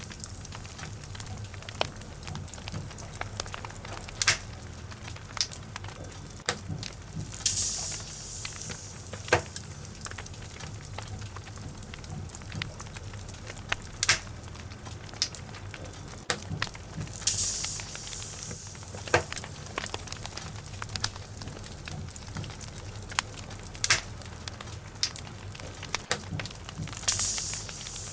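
Wood logs burning in a fireplace: a steady low rumble and hiss of the flames with scattered sharp crackles and pops. Now and then a brief hiss flares up for a second or so, three times.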